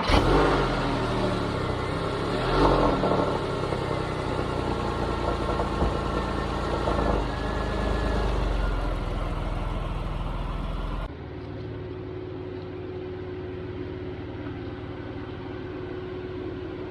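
Porsche 997 911's flat-six engine running just after start-up through its exhaust, with a brief rev about two and a half seconds in, then settling to idle. About eleven seconds in the sound suddenly becomes quieter and duller, leaving a steady low hum.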